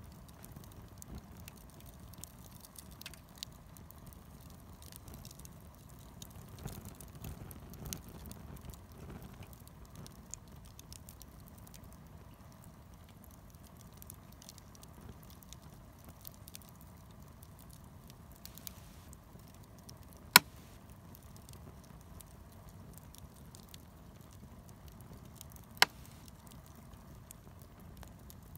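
Wood fire burning with a low flame rustle and scattered small crackles. Two loud sharp pops stand out, one about two-thirds of the way through and another near the end.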